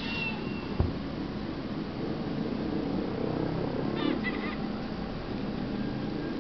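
Short, goose-like honking bird calls, once at the start and again as a brief cluster about four seconds in, over steady background noise. A single sharp knock comes about a second in.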